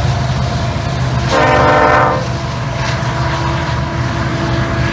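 Union Pacific diesel-electric freight locomotives rumbling steadily past at close range. One locomotive horn blast of about a second sounds about a second in, and is the loudest event.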